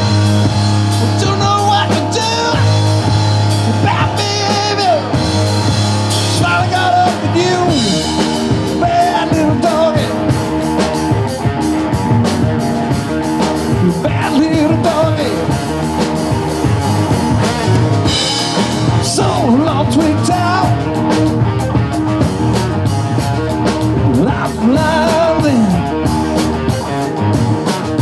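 Live rock band playing loud and steady, with drums, bass and electric guitar.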